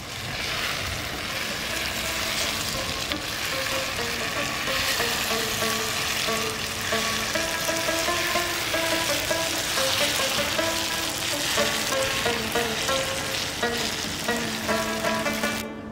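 Potatoes and bitter melon sizzling in oil in a wok, stirred with a wooden spatula, a steady high hiss. Plucked-string background music comes in faintly and grows clearer toward the end.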